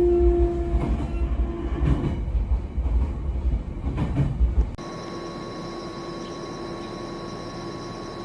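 Abukuma Express electric train rumbling and clattering as it slows into the terminal, with a brief whine near the start. About three-quarters of the way through it cuts abruptly to a steady even hum with a constant tone, like a stopped train idling.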